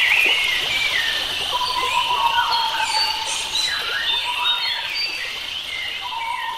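Several wild birds singing at once, overlapping warbling, gliding phrases, over a steady background hiss and a held note lower down that breaks off and starts again. The whole chorus slowly grows quieter.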